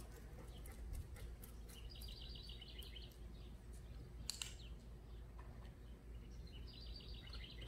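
A songbird singing two rapid trills of short repeated high notes, one about two seconds in and one near the end, over a faint, steady low outdoor hum. A few light ticks sound in the first second.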